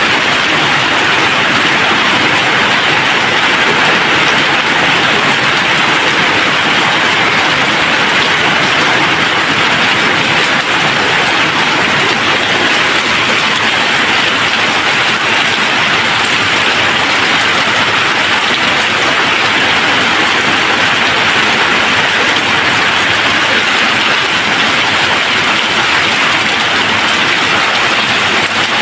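Steady, even rain without thunder.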